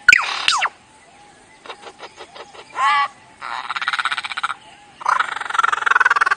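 A bird's calls: a quick run of falling, laugh-like notes at the start, mimicking a ghost's cackle. Then come a few faint clicks, a short warbled note, and two long, harsh, rapidly pulsing rattles.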